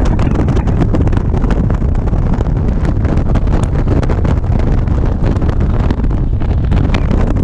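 Wind buffeting the microphone of a motorcycle riding at speed: a loud, steady rush with constant crackling gusts.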